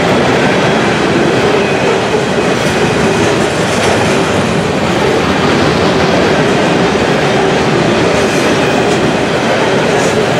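Freight train of covered hopper cars rolling past at speed, steel wheels rumbling and clattering on the rails, loud and steady, with a faint steady ringing tone underneath.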